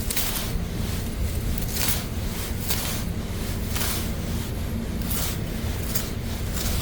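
Wind rumbling on the microphone, with short rustling tears about once a second as wild water dropwort stems are picked by hand.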